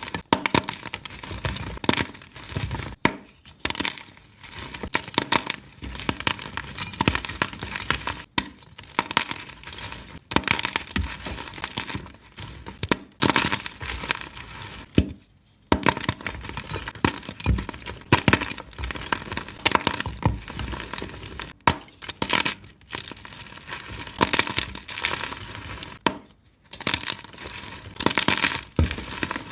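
Blocks of dyed, reformed gym chalk being crushed and crumbled, a dense, irregular crunching and crackling, crunchy yet soft, with brief pauses about 15 and 26 seconds in.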